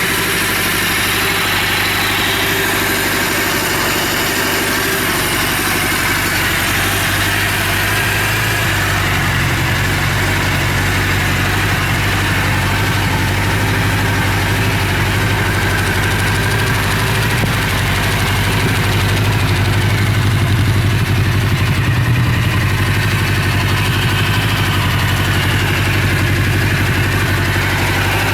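Suzuki GS750's air-cooled inline four-cylinder engine idling steadily, its low note firming up about nine seconds in and running a little louder in the later part, as it is run to show that it starts and runs.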